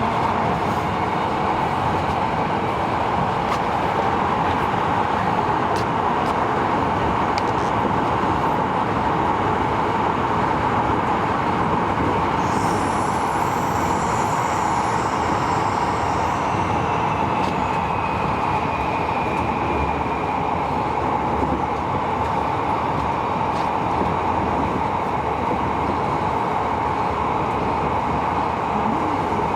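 Running noise inside a Tobu 70000 series electric train in a subway tunnel: a steady rumble of wheels and motors. About twelve seconds in a high-pitched squeal sounds for a few seconds, and in the second half a faint whine slowly falls in pitch.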